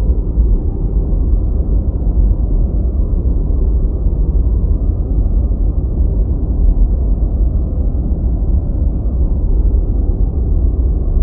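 Deep white-noise track: a steady, unbroken low rumbling hiss that is heaviest in the bass and has no treble at all.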